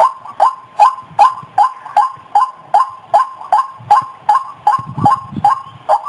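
White-breasted waterhen calling, a loud note repeated evenly at about two and a half a second, the bird's monotonous 'kruak' series used as a lure call.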